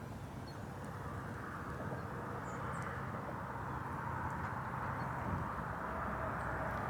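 Steady outdoor background noise: an even low rumble with a few faint, short high chirps over it.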